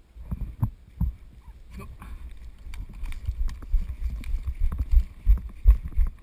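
Footsteps of an airsoft player on the move, with kit knocking against the body-worn camera: irregular dull thumps, two or three a second, getting busier after about three seconds.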